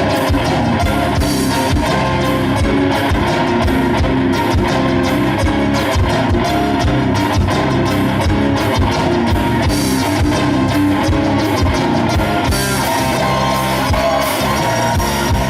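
Rock band playing: electric guitar over a steady drum-kit beat.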